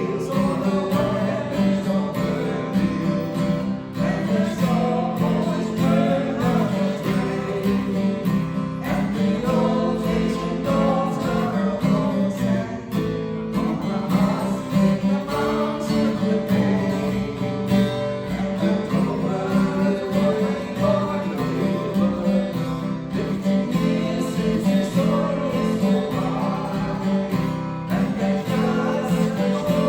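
Strummed acoustic guitar accompanying a voice singing a country song.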